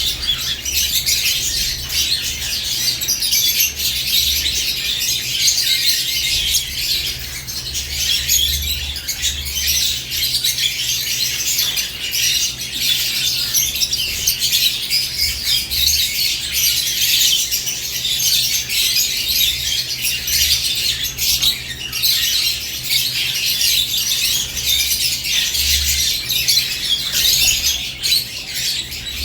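A flock of caged lovebirds chirping and squawking in a dense, continuous high-pitched chatter.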